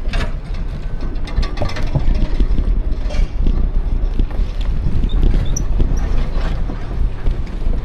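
Wind buffeting the microphone of a camera riding on an e-bike: a steady low rumble, with scattered light clicks and rattles.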